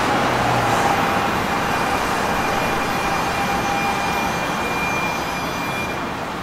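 NJ Transit Arrow III electric multiple-unit train rolling by on the track, a steady rumble of wheels on rail with a faint high whine, slowly fading.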